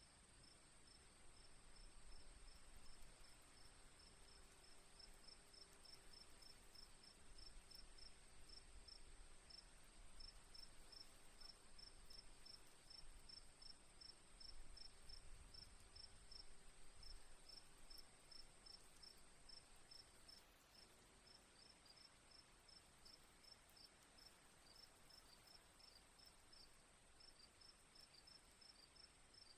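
Faint crickets chirping in a steady rhythm, about two to three chirps a second, over a constant high insect trill.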